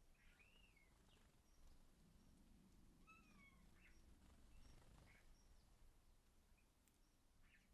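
Faint chirps and calls of small garden birds at a feeder: a few short chirps and a couple of longer calls that arch or fall in pitch, over low background noise.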